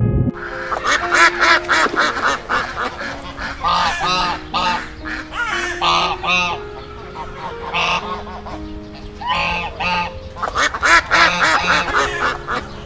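A flock of white domestic ducks quacking, many calls overlapping in quick runs with short gaps between.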